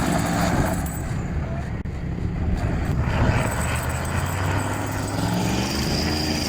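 Concrete mixer truck's diesel engine running steadily, with a low, even drone. The higher hiss drops out for about two seconds, starting about a second in.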